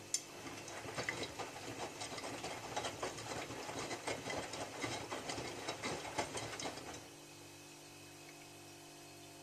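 Miele W3744 washing machine drum turning on a Minimum Iron wash, laundry and water sloshing with irregular clicks for about seven seconds, then the drum stops and only a low hum remains.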